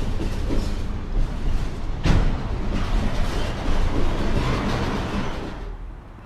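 Freight train of autorack cars rolling past on the rails: a steady rumble and rattle of wheels and car bodies, with a heavy clank about two seconds in. The sound cuts off near the end.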